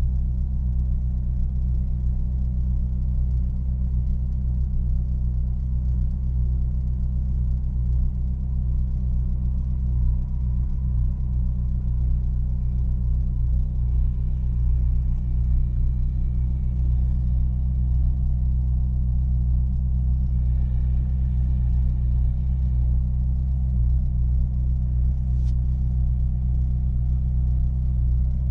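Ferrari California's 4.3-litre V8 idling steadily while warming up after a cold start, heard from inside the cabin as a deep, even rumble.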